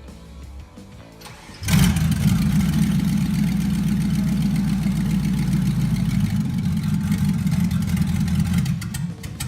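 Swapped-in 5.3-litre LS V8 of a 1990 Toyota Land Cruiser FJ62 catching suddenly a little under two seconds in and then running steadily, on a second attempt to start it.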